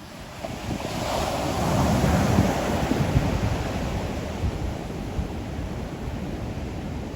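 Ocean waves breaking on the shore: a wave swells up about a second in, is loudest around two to three seconds, then slowly washes out. Wind buffets the microphone with a low rumble.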